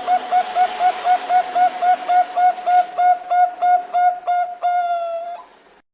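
Zebra dove (perkutut bangkok) calling: a fast run of short, clipped coos, about four a second, ending about five seconds in with one longer held note.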